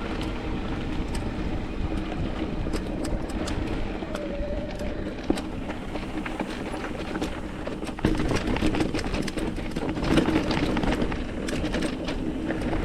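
Mountain bike riding over rocky trail: tyres rolling and crunching on rock, with many sharp clicks and rattles from the bike, and wind on the microphone. It gets rougher and louder about eight seconds in.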